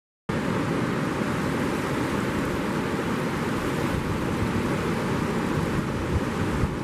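Steady wash of surf on the beach mixed with wind rumbling on the microphone, starting after a brief break in the sound.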